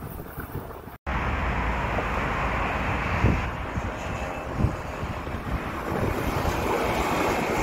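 Wind buffeting the microphone over the rumble of an approaching red DB Regio electric multiple-unit train. The sound cuts out for an instant about a second in, then the steady noise grows slowly louder, with a couple of thumps.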